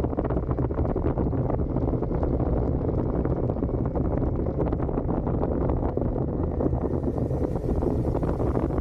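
Suzuki SV650's V-twin engine running steadily under way through its stock exhaust, with wind buffeting the microphone.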